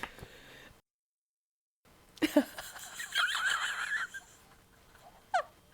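A woman's high-pitched giggle: a short squeak, then about a second of wavering high laughter, then one more short squeak, after a second of silence between recordings.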